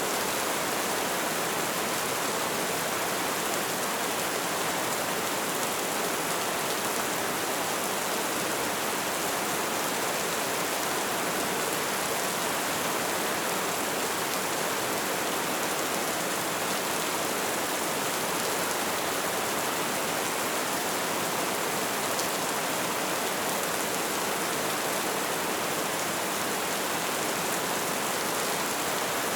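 Light rain falling as a steady, even hiss.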